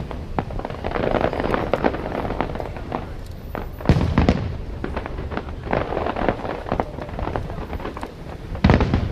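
Aerial fireworks display: shells bursting with deep booms about four seconds in and again near the end, and crackling throughout.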